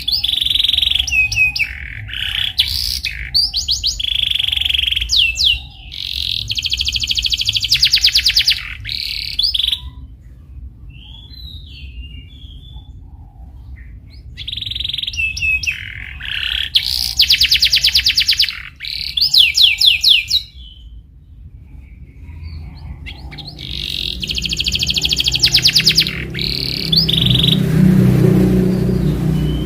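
Domestic canary singing in bursts of fast, rolling trills and rapid chattering notes, with short pauses between phrases. A low hum rises under the song near the end.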